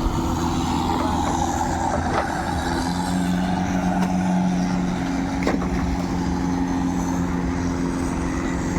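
Longtail boat engine running steadily, its pitch shifting slightly about three seconds in, with a few light knocks.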